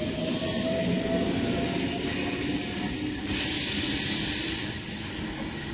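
S-set double-deck electric train pulling out and moving away down the line: a steady low rumble of wheels on rail with thin, steady high-pitched whines over it.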